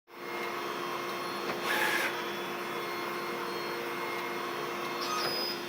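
A machine running steadily with a constant hum. A louder rasping burst comes about every four seconds, once near two seconds in and again just after the end: the recurring noise that the machine is being filmed for.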